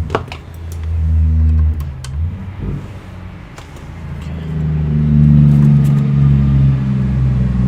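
A motor running with a low drone that rises and falls, getting loudest about five seconds in, with a few sharp clicks near the start.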